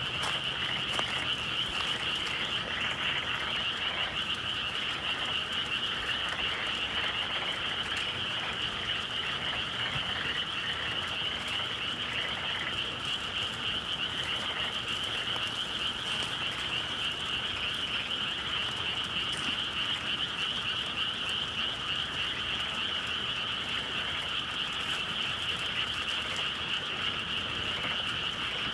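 A dense chorus of many frogs calling together, steady and unbroken, with a few faint sharp clicks here and there.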